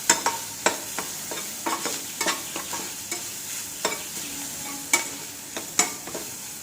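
Onions, green chillies and carrot sizzling in oil in a pan while a spatula stirs them, with irregular sharp clacks of the spatula against the pan over the steady sizzle.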